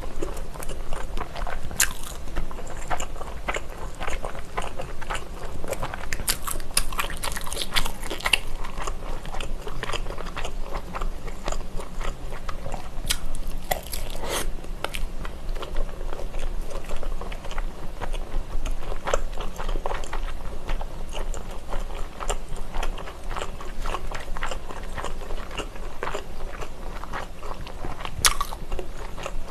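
Close-miked biting and chewing of a skewered sausage: crisp snaps of the casing and moist chewing, with sharper bites now and then.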